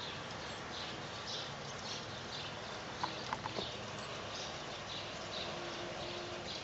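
Autumn rain falling, a steady hiss with regular drips landing about twice a second. A few sharp clicks come about halfway through.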